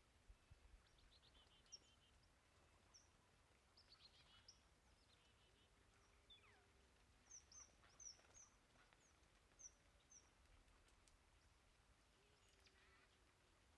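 Faint chirps and short calls of small songbirds, chickadees and tufted titmice, scattered through, with a few buzzier notes and a quick run of chirps about eight seconds in.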